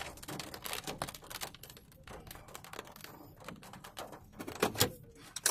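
Rain pelting a car's windshield and roof, heard from inside the car as a dense, irregular patter of ticks, with a couple of louder knocks near the end.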